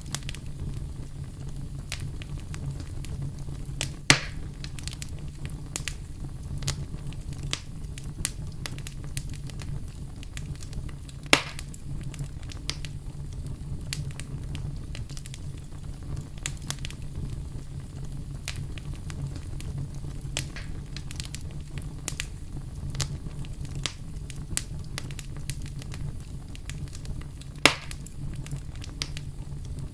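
Wood campfire crackling steadily with frequent small snaps over a low, steady rumble, and three loud pops about 4, 11 and 28 seconds in.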